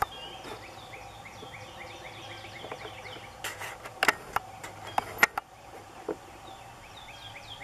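A songbird sings a rapid run of short, downward-sliding chirps, about four a second. Around the middle, several sharp clicks sound, the two loudest about a second apart.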